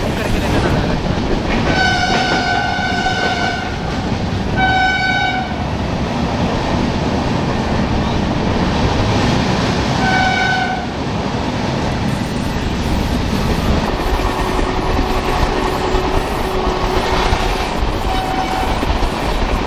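Express train running at speed, a steady rumble with the clatter of wheels over rail joints. A train horn sounds three times: one long blast about two seconds in, a shorter one around five seconds, and a brief one near ten seconds.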